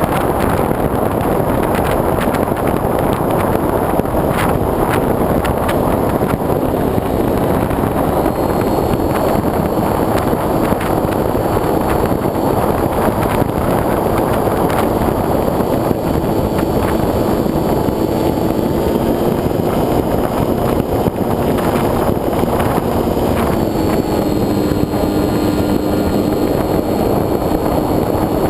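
Steady rush of airflow over a wing-mounted GoPro on a foam RC plane in flight, with the plane's motor and propeller tone faintly underneath, shifting in pitch as the throttle changes a few times.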